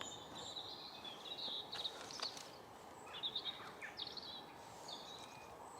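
Small birds chirping in short, high, quick phrases, faint and scattered, over a quiet background hiss.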